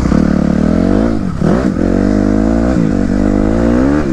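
Dirt bike engine accelerating, its pitch climbing and dropping back sharply three times as it shifts up through the gears.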